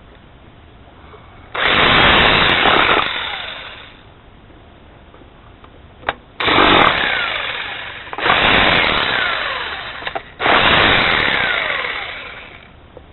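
Chicago Electric 1-inch SDS rotary hammer drilling into concrete block in four short runs. Each run starts abruptly and winds down with a falling whine.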